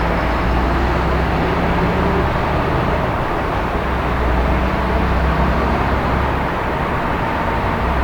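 City traffic ambience: a steady low rumble of road traffic with a constant low hum underneath, and no single vehicle or event standing out.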